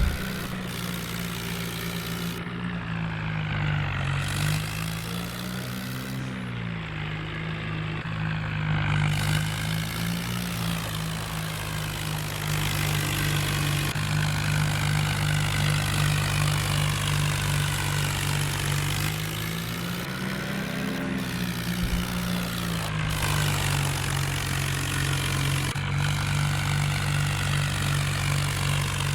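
Tractor engine running steadily, its speed rising briefly and easing back twice.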